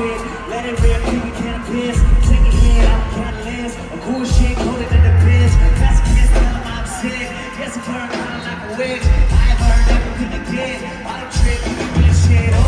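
A reggae-rock band playing live, with a lead vocal singing over heavy, booming bass notes that come and go.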